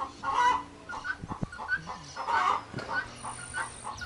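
Birds calling, with short calls repeated at irregular intervals and two louder ones about half a second and two and a half seconds in.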